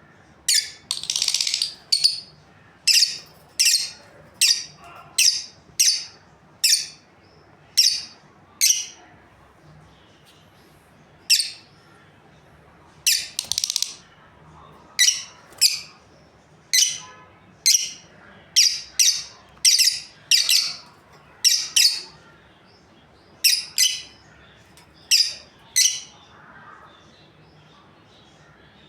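Lovebirds chirping: a long run of short, sharp, high-pitched calls, about one a second, with a couple of brief pauses.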